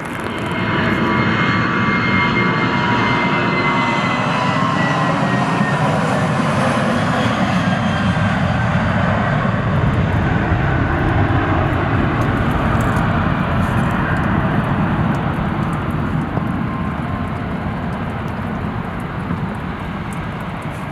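Jet airliner's engines passing close by: a loud, steady roar that swells about a second in, with a whine falling in pitch over it in the first several seconds, then easing off near the end.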